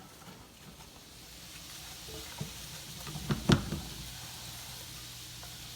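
Sliced cabbage going into a frying pan of rendering bacon. The sizzling builds after the first second or so and then holds steady, with a few knocks of the food and utensil in the pan, loudest a little past halfway.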